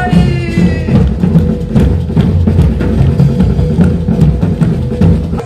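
A percussion ensemble playing drums live, dense low drum strokes with a steady beat over a held tone, breaking off abruptly at the very end.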